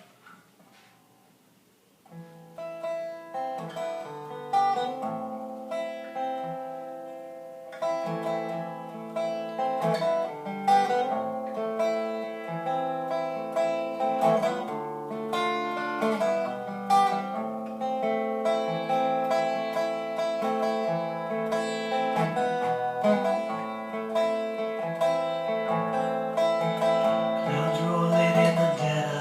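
Acoustic guitar starting about two seconds in, playing a song's instrumental intro in separately plucked notes.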